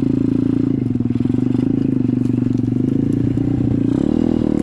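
SSR 125 dirt bike's single-cylinder four-stroke engine running at a steady speed, with a brief rev up and back down near the end.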